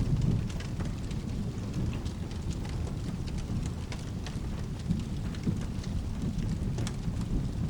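Steady rain with a low, continuous rumble of thunder, and scattered sharp crackling ticks throughout.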